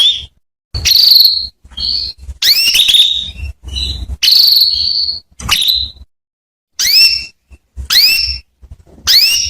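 Female canary calling: a run of about ten short, rising chirps, roughly one a second with brief gaps between them. This is the hen's call used to stir male canaries into song.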